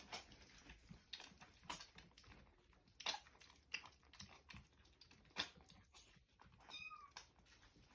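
Faint, scattered clicks and smacks of 3–4-week-old kittens eating from a dish on their own for the first time. One short, high kitten mew comes about seven seconds in.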